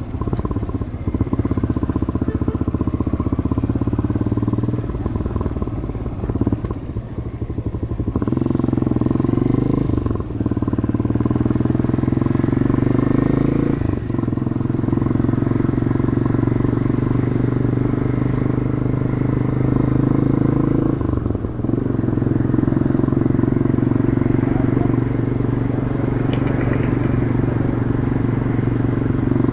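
Demak DTM 150 motorcycle engine through its stock exhaust, heard from the rider's helmet, running under way. Its pitch rises as it accelerates and drops briefly at gear changes about three times.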